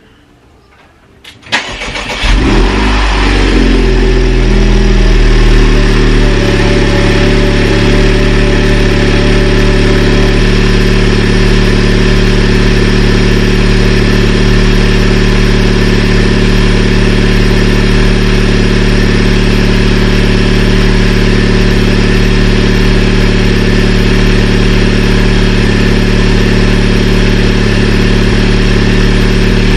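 Honda Civic Type R's turbocharged 2.0-litre four-cylinder cold-starting through an AWE Touring exhaust: a brief crank about a second and a half in as it catches, then a loud, steady cold idle.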